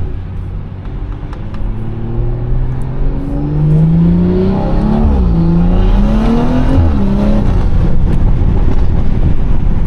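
BMW 340i's turbocharged straight-six, breathing through a catless downpipe and a Valvetronic Designs valved exhaust, accelerating hard: the engine note climbs, drops at a gear change about five seconds in, climbs again and drops at a second shift about seven seconds in, then runs steadily.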